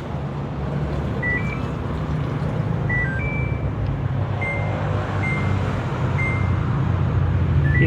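Samsung top-load washing machine's control panel beeping as its buttons are pressed to select the spin programme: a series of short, high beeps, some in quick pairs at slightly different pitches, over a steady low hum.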